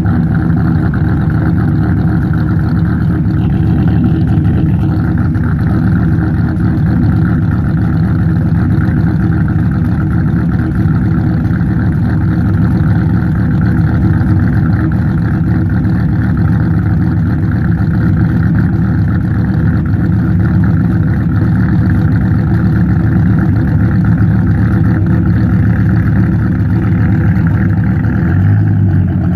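Supercharged 8.0-litre V10 of a 1996 Dodge Viper GTS idling steadily while still cold, through a straight-pipe exhaust.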